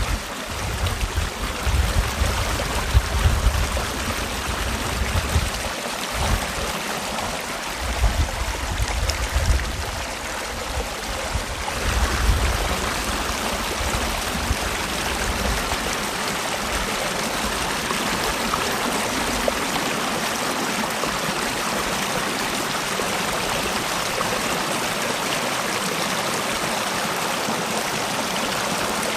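Mountain valley stream flowing, a steady rushing and gurgling of water. A low, gusty rumble comes and goes through the first half, then the flow settles to an even rush.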